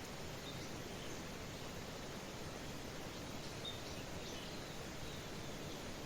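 Steady hiss of light rain with faint, scattered bird chirps, a few short high calls here and there.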